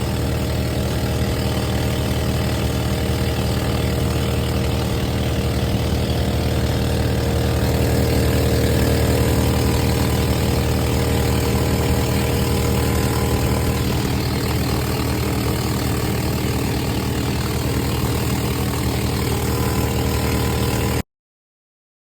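An engine running steadily with an even low drone. The sound cuts off abruptly about a second before the end.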